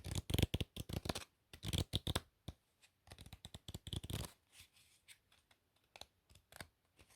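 Playing cards being shuffled close to the microphone: three quick bursts of crisp, rapid card flicking in the first four and a half seconds, then a few scattered lighter taps and slides.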